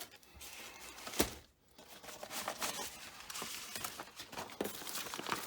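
Paper and documents being handled and rustled, with a sharp knock about a second in.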